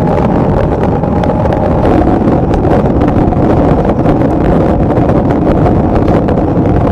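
Motorcycle riding at expressway speed in a downpour and strong wind: a loud, steady rush of wind and rain on the microphone over engine and road noise, with constant small ticks of raindrops striking.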